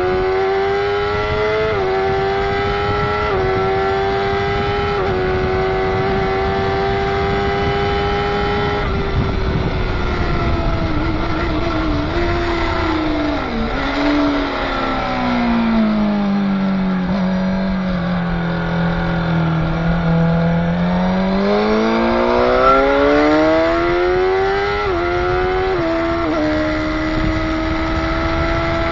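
Motorcycle engine on track, accelerating through the gears with quick upshifts in the first few seconds and then holding high revs. About halfway through it drops through the gears under braking, runs at low revs through a slow corner, then revs up again with two more upshifts near the end.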